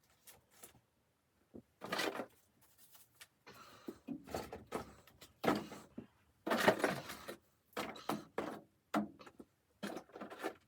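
Irregular rustling, scraping and knocking of things being handled, in short uneven bursts.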